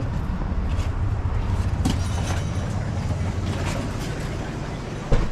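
Low, steady rumble of a car heard from inside the cabin, with a few faint clicks and a sharp thump near the end, after which the rumble drops away.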